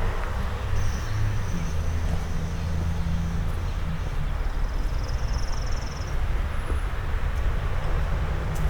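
Low, steady engine rumble of a motor vehicle close by, its hum shifting a little in pitch. Faint high bird chirps about a second in and a short trill around the middle.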